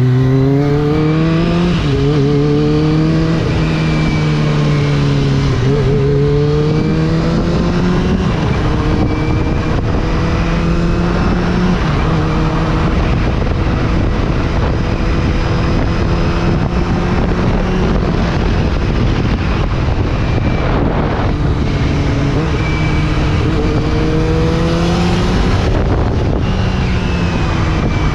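Kawasaki Ninja ZX-25R's 249 cc inline-four with an Akrapovič racing-line exhaust running under way, its pitch climbing and dropping several times as the throttle opens and closes, under heavy wind noise on the microphone.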